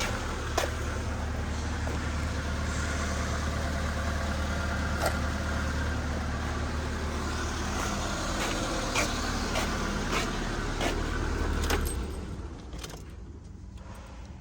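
LDV G10 van engine idling steadily, with scattered sharp clicks over it, then shut off near the end.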